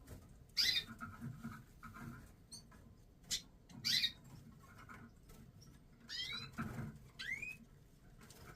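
European goldfinches calling: short, sharp chirps sweeping up and down in pitch, in scattered groups, mixed with a few sharp clicks.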